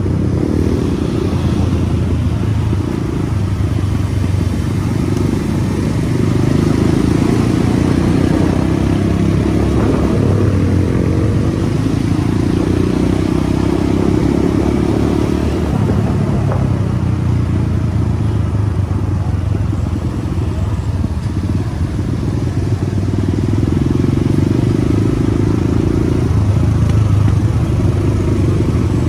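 Motorcycle engine running steadily as the bike is ridden, with the engine note swelling slightly a few times.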